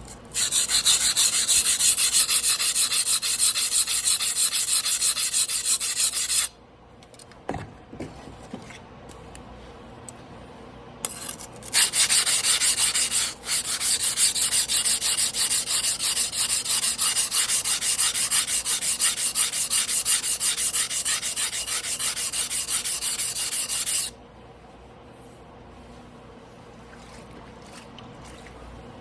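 Carbon-steel yanagiba blade stroked rapidly back and forth on a whetstone by hand: a rhythmic scraping grind in two runs, about six seconds and then about twelve, with a pause and a few light clicks between.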